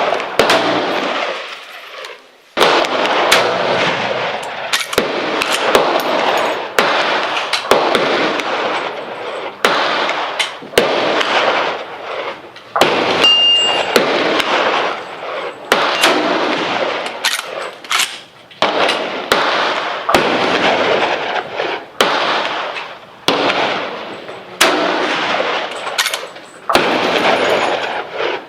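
Rifle shots fired in irregular succession on a shooting range, roughly one a second, each with a long echoing decay, so more than one shooter is firing. A brief high ring sounds about halfway through.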